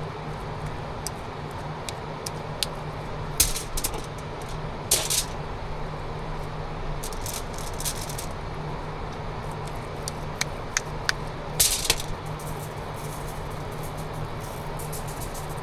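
Scattered sharp clicks and light clattering, with a few louder knocks, over a steady low hum.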